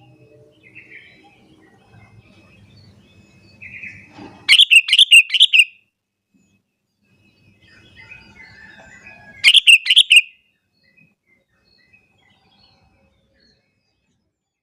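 Sooty-headed bulbul (kutilang) singing: two loud phrases of quick repeated notes, the first about four and a half seconds in and the second about nine and a half seconds in.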